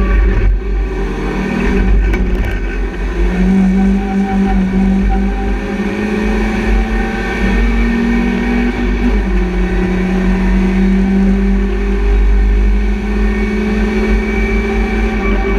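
BMW Compact race car's engine heard from inside the stripped cabin, running hard at racing revs with road and wind noise, its note shifting slightly in pitch a few times.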